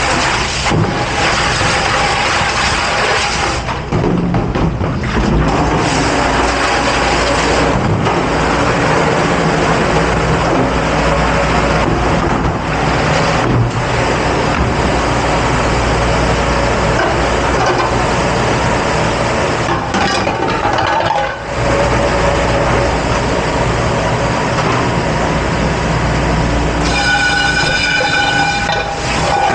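Commercial dish-pit machinery running: a loud, steady rushing noise over a low hum. A short pitched tone sounds near the end.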